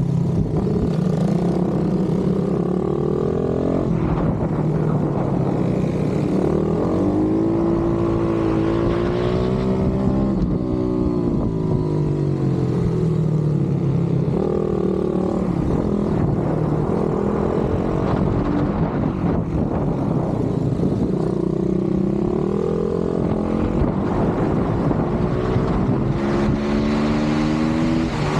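Pit bike engines revving hard. The engine note rises and falls over and over as the bikes accelerate, shift and back off through the corners of a race.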